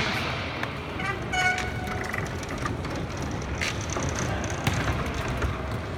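Roller hockey rink din: a steady background of noise with scattered sharp clacks of sticks and puck, and a brief shout or call about a second in.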